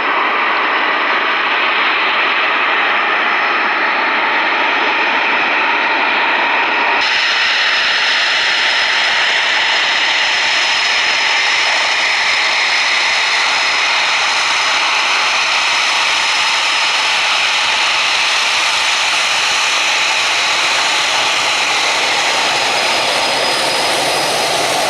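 Eurofighter Typhoon's twin jet engines running loud and steady. About seven seconds in, the sound abruptly turns brighter and hissier.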